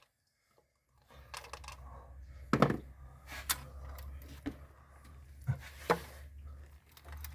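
Scattered clicks and knocks of hand tools and bolts being worked by hand on the engine, about five in all, over a steady low hum.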